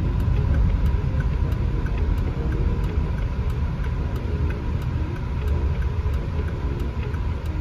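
Steady low rumble inside the cabin of a 2015 Volvo XC60 on the move: road and engine noise while driving.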